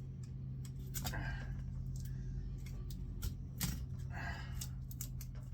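Irregular small clicks and scrapes of hand work on an electric motor's windings, as tape and hardened resin are picked and scraped off to expose the wire, over a steady low hum.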